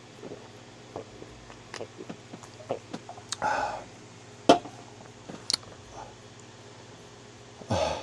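A person drinking from a can: scattered small clicks and knocks of the can being handled, a short breathy sip-like noise about three and a half seconds in, one sharp knock about halfway through, and another short breathy noise near the end.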